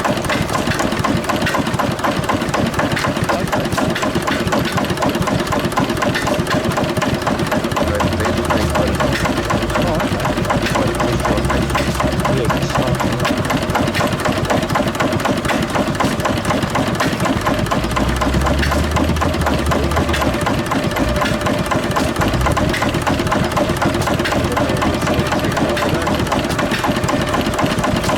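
1917 International Harvester Mogul 1 hp kerosene stationary engine running steadily.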